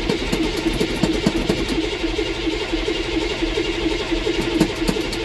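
Starter cranking the 1983 Chevrolet M1008's 6.2-litre non-turbo diesel V8 on a cold start: a steady starter whine with uneven compression beats as the engine turns over without catching. The engine is hard starting after sitting for months.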